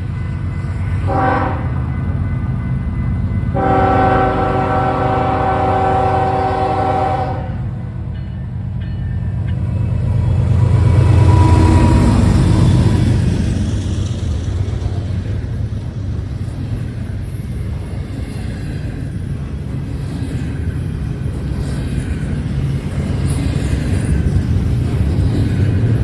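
BNSF diesel freight locomotive sounding its multi-note air horn, a short blast about a second in and a long one of about four seconds, then running loudly past about eleven seconds in. After that comes the steady rumble and clatter of the double-stack train's cars rolling by.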